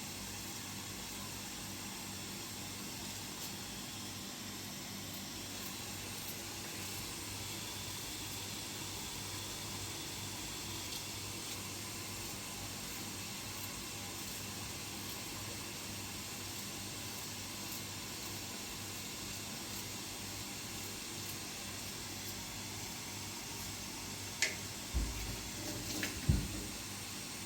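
Steady hiss with a faint low hum, and a few short knocks near the end.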